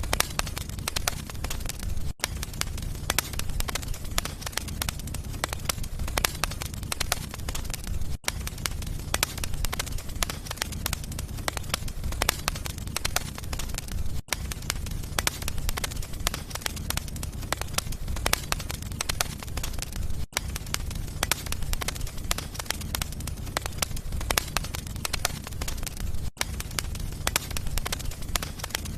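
Wood fire burning in a fireplace: continuous dense crackling and popping over a steady low rumble, with a very brief gap in the sound about every six seconds.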